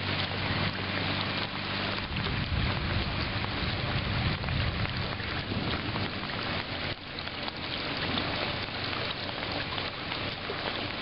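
Steady hiss of water, with no break or change in character.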